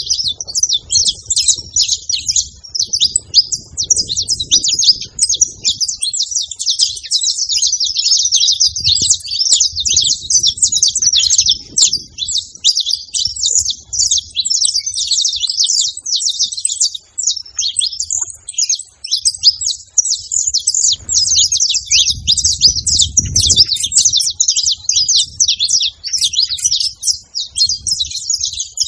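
Saffron finch singing: an unbroken stream of rapid, high chirps and trills, with a faint low rumble underneath now and then.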